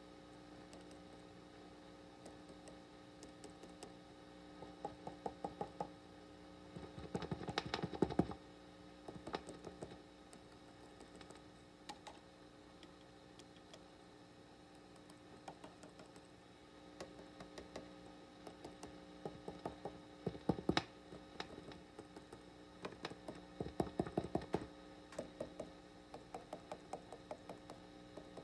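Fender '68 Deluxe Reverb reissue amplifier putting out a steady hiss and hum. Over it come bursts of rapid clicks and knocks as the wires and circuit board around the V4 tube socket are tapped. The taps come through the speaker because of microphonics in the V4 circuit, where the owner suspects the hiss comes from.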